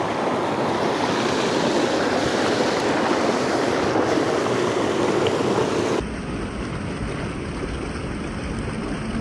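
Mountain creek water rushing steadily. About six seconds in, the sound cuts abruptly to a quieter, duller rush.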